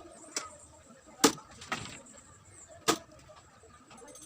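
A series of four sharp knocks, irregularly spaced about a second apart, the loudest just over a second in.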